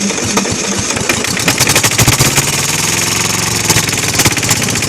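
Kohler KD425-2 two-cylinder diesel engine running loud with a rapid knocking beat just after catching, unsteady because it is losing fuel.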